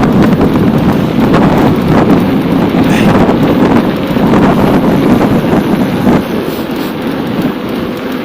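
Loud wind buffeting the camera microphone while riding a bicycle at speed, with a few knocks through it; it eases off slightly after about six seconds.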